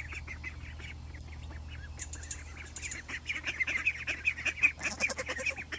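A flock of farm ducks calling with many short, rapid quacks, sparse at first and becoming much busier about halfway through, over a steady low hum.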